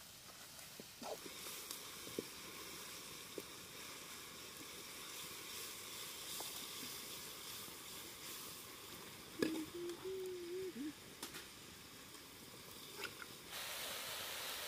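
Faint sizzling of sliced onions frying in mustard oil in an iron wok, with a few light clicks of the ladle against the pan. The sizzle grows louder near the end, and a short faint wavering tone comes through about two-thirds of the way in.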